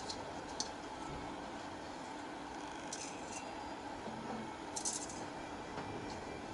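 Light clicks and rustles from hand-winding wire onto a fan motor's coil, a few scattered over a steady background hum and hiss.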